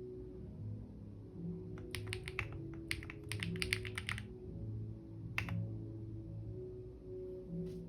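Computer keyboard typing in short bursts: a quick run of keystrokes about two seconds in, a longer run from about three to four seconds, then single keystrokes, over background music.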